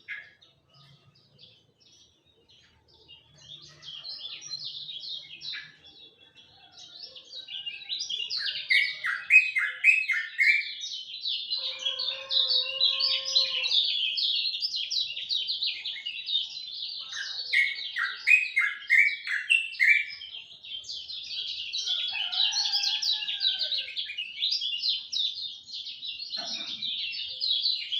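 Kecial kuning white-eye singing a fast, continuous twittering song of rapid high chirps. It starts faintly a few seconds in and is loud and unbroken from about eight seconds on.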